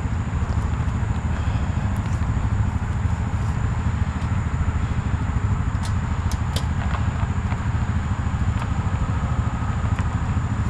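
An engine idling steadily, with a few light clicks about six seconds in.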